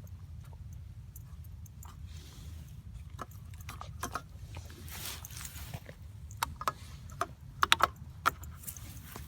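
Steady wind rumble on the microphone, with scattered light clicks and jingling, and a few sharper clicks a little past three-quarters of the way through.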